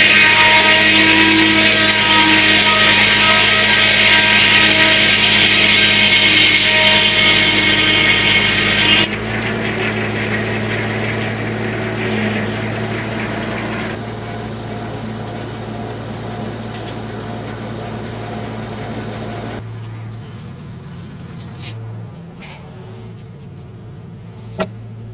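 Homemade circular sawmill's blade cutting through a log, a loud, steady saw noise with a whine in it that stops abruptly about nine seconds in as the blade leaves the cut. The tractor-driven mill then keeps running with a lower, steady hum that quietens in two steps.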